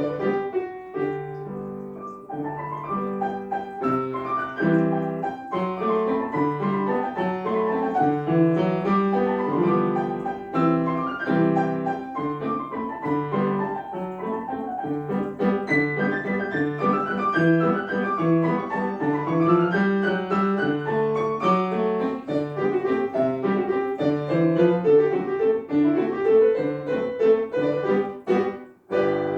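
Piano playing a tune in a steady flow of notes, breaking off briefly near the end before a new chord is struck.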